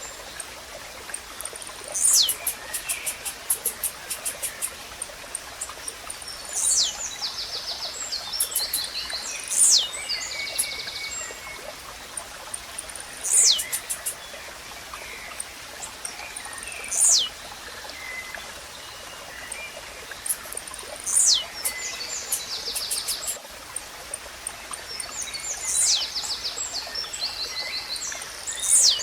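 Blue-black grassquit (tizil) singing its short song over and over: a sharp, quick downward-sweeping note about every three to four seconds. Softer buzzy trills from other birds and a steady hiss of running water sit underneath.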